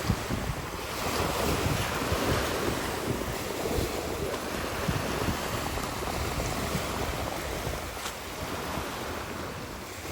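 Sea waves washing in a rough sea, with wind buffeting the microphone.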